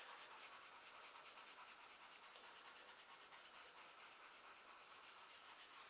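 Kneaded eraser rubbed in quick small circles over charcoal on drawing paper: a faint, fast, even scrubbing hiss.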